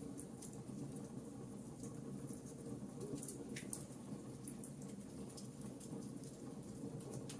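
Wood fire crackling in a fireplace: a steady low rumble of burning logs with scattered sharp pops and snaps, a slightly louder snap a little past halfway.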